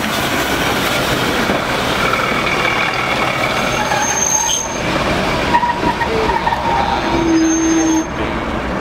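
A steam-hauled train of passenger coaches rolling slowly past close by, its wheels rumbling on the rails. Brief high-pitched wheel squeals come in the second half.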